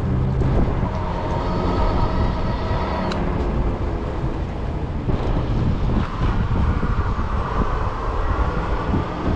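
Wind buffeting the microphone over the steady rumble of a 20-inch fat-tire e-bike rolling along the road, with a faint steady whine running over the rumble.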